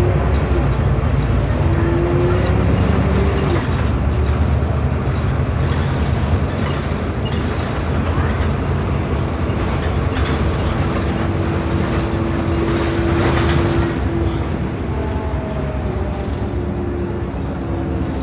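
Agora S city bus under way, heard from on board: a steady low rumble of engine and running gear, with a whine that comes and goes, held steady for several seconds about ten seconds in, and a few gliding tones near the end. The whine is likely the odd noise the bus is known for on this ride.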